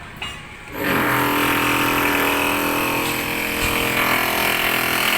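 Electric power tool starting up about a second in and running at a steady pitch, loud, then cutting off just after the end.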